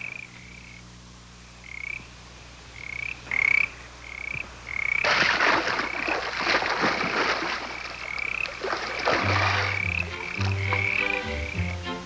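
A frog chorus: short, high chirping calls repeating about twice a second, joined in the middle by a few seconds of splashing-like noise, and near the end by deep, short croaks.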